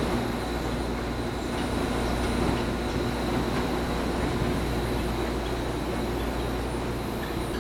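A BART train pulling slowly into a station: a steady hum of its motors and wheels rolling on the rails.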